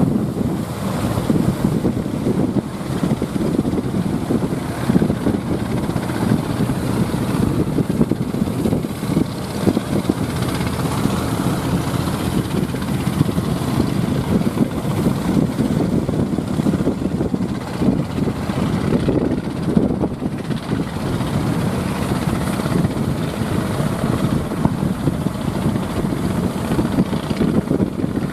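Strong wind buffeting the microphone over the wash of surf.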